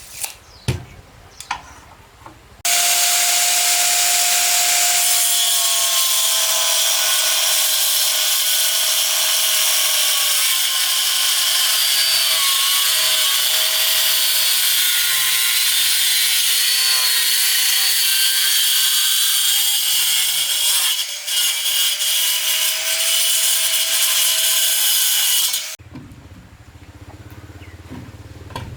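Power saw cutting wood: a loud, steady cutting noise with a wavering motor pitch. It lasts about twenty-three seconds and starts and stops suddenly, after a few short knocks.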